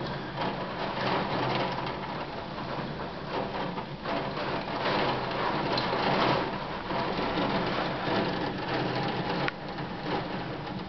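Heavy rain in a thunderstorm: a steady rushing downpour that swells about halfway through, then eases a little.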